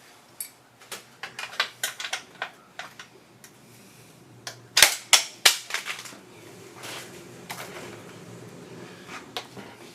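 Handling clatter: a run of sharp clicks and light knocks, then a cluster of loud knocks and clatters about five seconds in, followed by quieter rustling with a few more clicks.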